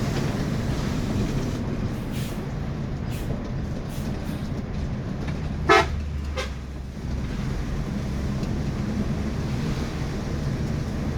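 Steady engine and road rumble inside a moving intercity bus, with one short horn toot about halfway through.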